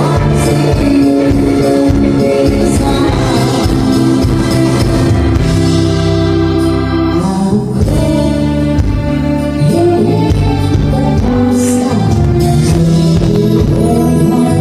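Live band playing a song, with a singer's voice over sustained chords and a full bass.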